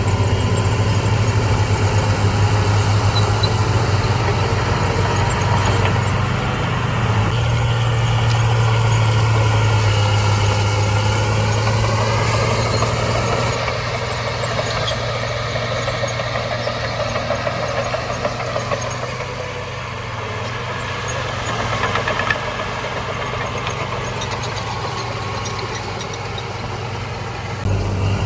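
Heavy diesel earthmoving machine engine running with a steady low drone. It eases off about halfway through and picks up again near the end.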